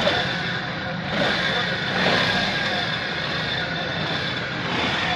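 A car engine running steadily, with a slight rise in loudness about a second in.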